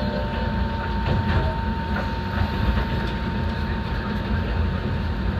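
Enoden electric train running along the track, heard from inside the front car: a steady low rumble of wheels and car body with a faint, constant high tone and a few light clicks.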